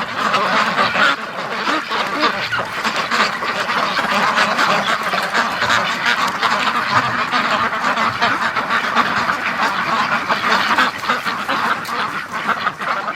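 A flock of white Pekin ducks quacking, many at once, in a loud continuous chorus.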